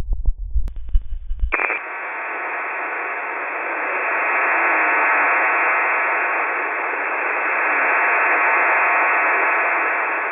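Shortwave radio static from a WebSDR receiver: a low throbbing hum with clicks, cut off about a second and a half in by a steady band of hiss in the voice range, with faint wavering signals buried in it.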